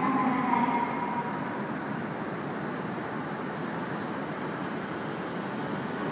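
Steady running noise of an E5-series Shinkansen train standing at the platform under a station roof. A brief high tone sounds at the very start, louder than the rest.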